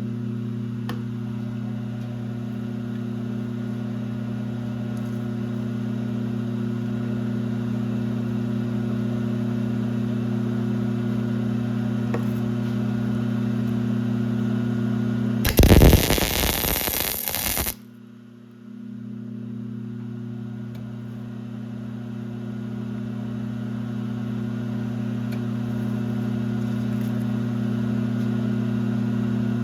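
Steady electric machine hum in a machine shop, interrupted about halfway through by a loud, harsh burst of noise lasting about two seconds. Right after the burst the hum cuts out and then builds back up.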